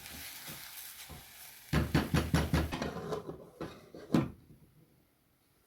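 A run of short knocks and clatter about two seconds in, then one sharper knock a little after four seconds, then dead silence.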